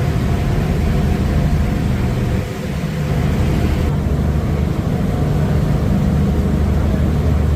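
Ferry engine running steadily, a loud low hum with a dip about two and a half seconds in.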